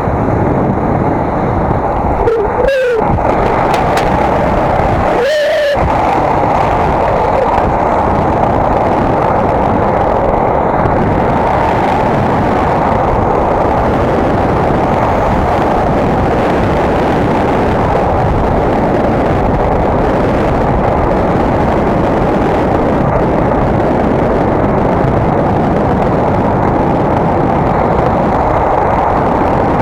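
Steady wind rumble on an action camera's microphone while riding a bicycle. Two short squeals cut through about three and five and a half seconds in.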